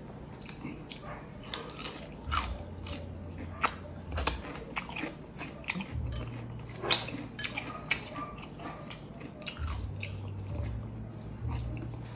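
A person chewing and eating chicken adobo drumsticks and rice by hand: a run of small, irregular mouth clicks and smacks of chewing.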